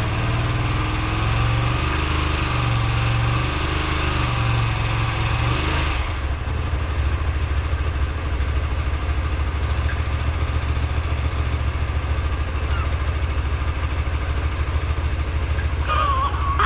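Hyosung GV125 Aquila's small V-twin engine running at a steady idle on a little choke, after it has at last been made to start. About six seconds in the sound changes abruptly to a duller, lower running note. Near the end a brief higher sound cuts across it.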